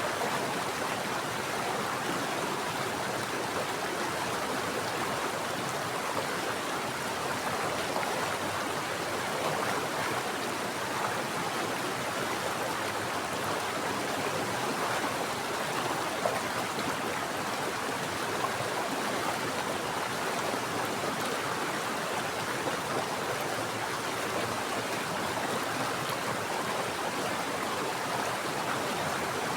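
Mountain stream running steadily, a constant rush and splash of flowing water with no breaks.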